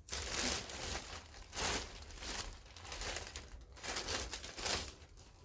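Packaging crinkling as it is handled, in a run of short rustling bursts.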